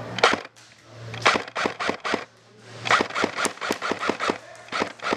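Airsoft electric guns firing a string of sharp single shots in uneven bursts, up to about six shots a second at the busiest point, with short gaps between clusters.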